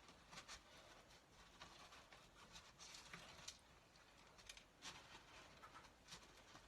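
Faint, irregular crunching and crackling of loose bird seed as a honey-coated cardboard toilet roll is rolled through it on a chopping board.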